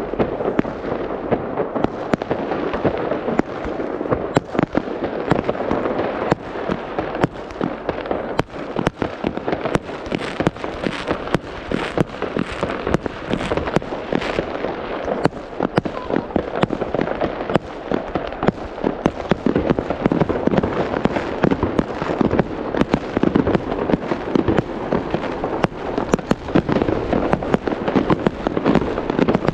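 Fireworks display: dense, continuous crackling and popping of many shells bursting overhead, with no break.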